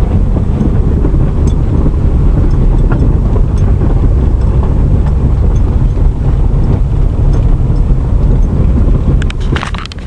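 Wind buffeting the microphone: a loud, steady low rumble that dips briefly near the end.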